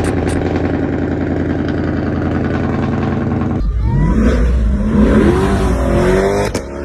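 Car engine running with a steady note, then revved several times in rising sweeps, dropping off abruptly near the end.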